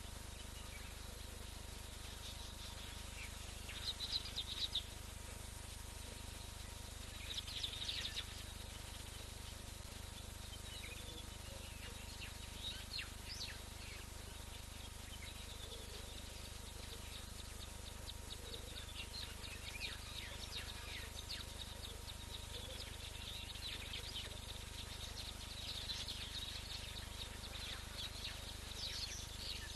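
Small birds chirping in short clusters about 4 and 8 seconds in, then more often through the second half, over a steady low hum and hiss.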